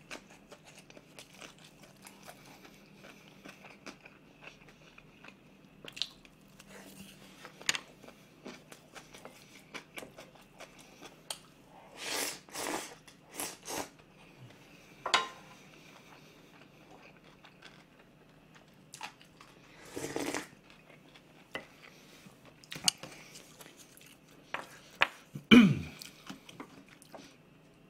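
A person eating close to the microphone: chewing and crunching food, with scattered small clicks and a few louder bursts of eating noise around the middle. A sharp, louder mouth noise near the end is the loudest moment.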